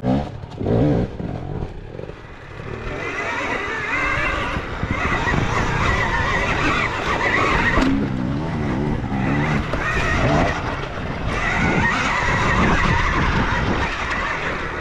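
Dirt bike engine revving hard under load on a steep trail climb, the revs rising and falling as the rider works the throttle, with the sound swelling about two seconds in and staying loud.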